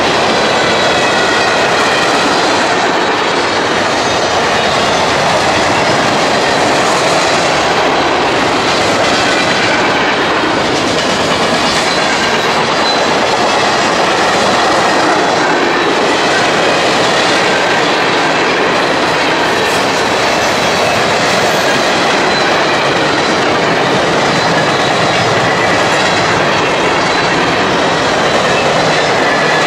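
Freight train cars rolling past close by: a loud, steady noise of steel wheels running on the rails, with a faint high-pitched wheel squeal.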